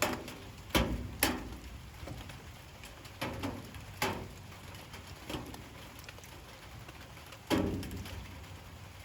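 Light rain: a soft steady patter with large drops landing one at a time on a hard surface, about seven sharp, irregular drips, one of the loudest near the end.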